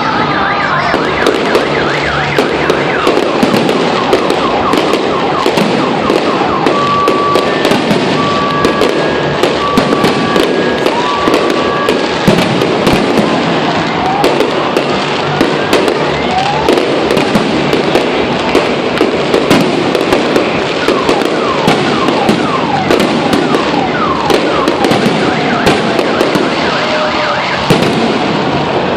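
Fireworks finale: a dense, continuous barrage of bangs and crackles mixed with many whistling shells sliding up and down in pitch. A short run of evenly spaced high beeps sounds briefly about a quarter of the way in.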